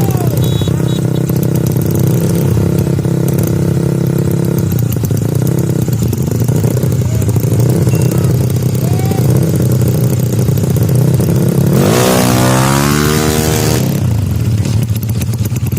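Tuned Yamaha Mio scooter engines running at idle, then one revving hard for about two seconds near the end, its pitch sweeping with a loud rush of exhaust noise before settling back.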